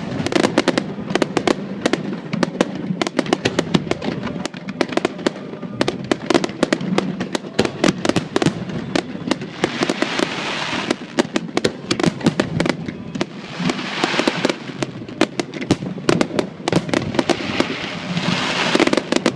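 Fireworks display: a dense, fast stream of bangs and crackles from bursting shells, with swells of hissing crackle about halfway, about three quarters of the way, and near the end.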